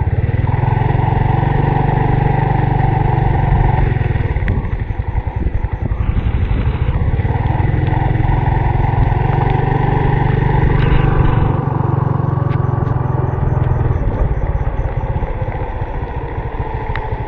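Honda RSX 110 underbone motorcycle's single-cylinder four-stroke engine running as it is ridden, easing off and picking up again a couple of times.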